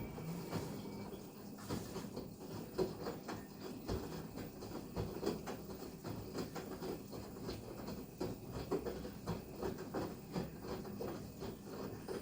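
LG direct-drive front-loading washer-dryer tumbling a wash load: an irregular stream of soft thuds and patter as the drum turns.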